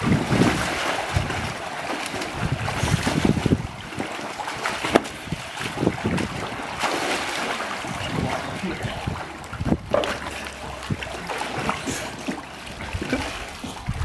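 Swimming-pool water splashing and sloshing irregularly, with wind buffeting the microphone.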